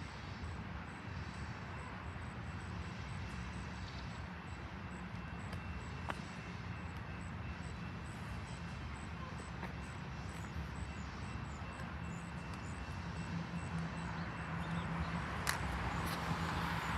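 Long train rumbling past at a distance, a steady low rumble. Near the end a car drives by on the road and grows louder.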